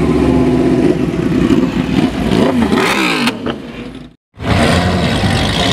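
A car engine running with a steady drone, then revved up and down a few times; the sound fades and cuts off abruptly about four seconds in, and steady engine noise starts again a moment later.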